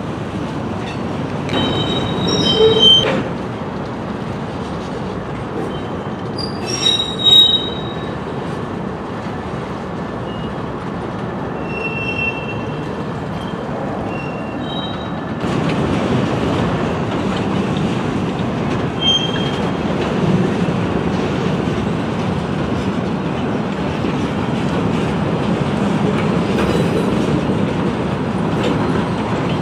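Train rolling past, with the steady rumble of steel wheels on rail and short high-pitched wheel squeals several times. The rolling noise grows a little louder about halfway through.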